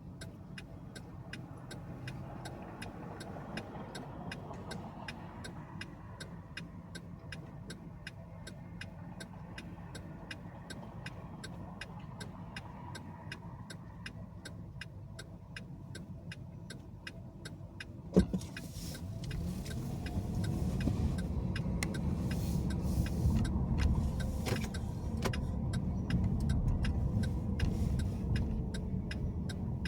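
Car's turn signal ticking about twice a second inside the cabin over quiet engine and road rumble. A sharp click comes about 18 seconds in, then the engine and tyre noise grows louder as the car pulls away and gathers speed.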